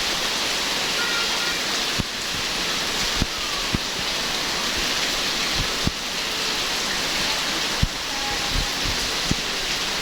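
Heavy rain falling in a steady, dense hiss, with louder single drops knocking sharply every half second to a second.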